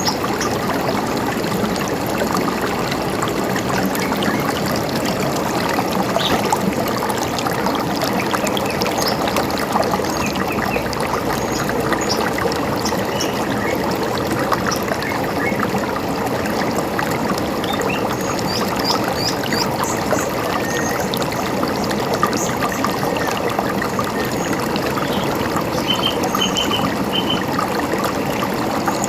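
River water running steadily, with scattered short bird chirps above it, including a quick run of four notes near the end.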